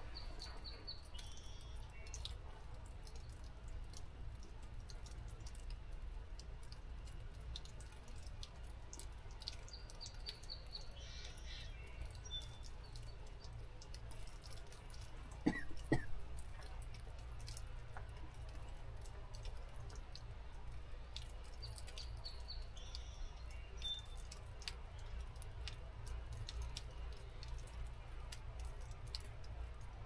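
Forest birds calling in short bursts of quick high notes, about every ten seconds, over a steady low rumble. Scattered faint ticks run through it, and two louder knocks come about halfway through.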